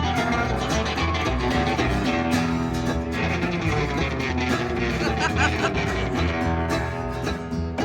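Live country band playing an instrumental passage with guitars and a steady beat.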